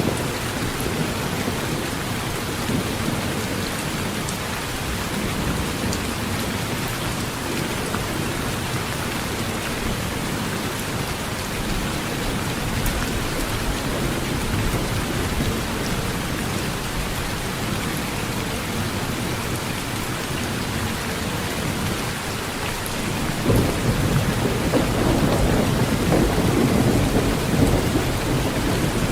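Heavy rain drumming steadily on a tin roof, with thunder rumbling low underneath; the rumble swells louder near the end.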